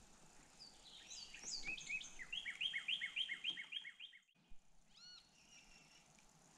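A songbird singing a fast series of repeated down-slurred whistled notes, about four or five a second, faint against the outdoor background. The song cuts off suddenly about four seconds in, and a few short chirps follow about a second later.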